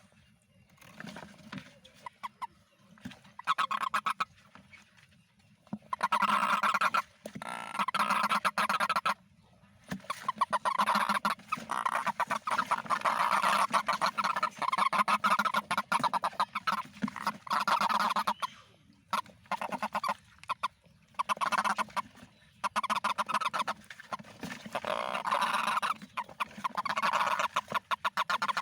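Toads calling in long, rapid pulsed trills lasting several seconds each. The trills come in bouts with short pauses, the way toads call in a rainy-season chorus.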